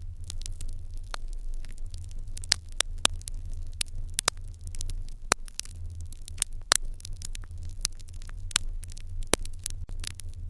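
Fire in an irori hearth crackling with irregular sharp pops, several a second, over a steady low hum.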